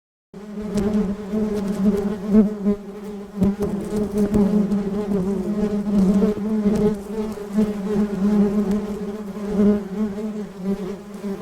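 Honeybees buzzing close to the microphone: a steady, low hum that swells and fades as the bees move about.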